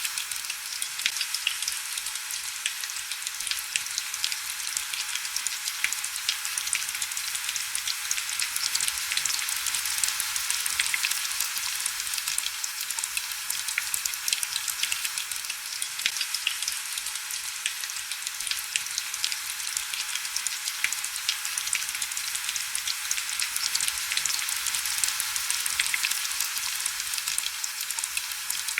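Heavy rain falling steadily: a dense, even crackle of countless fine drop ticks, bright and thin with almost no low rumble.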